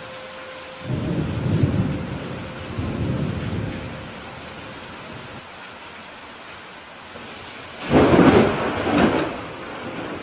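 Steady rain with thunder: a low rumble about a second in that rolls on for about three seconds, then a louder, sharper thunderclap near the end with a second peak about a second later.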